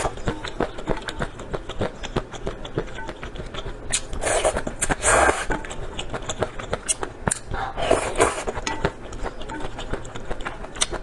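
Close-miked eating: a steady run of small wet chewing clicks, with longer, louder noisy stretches about four to five seconds in and again around eight seconds.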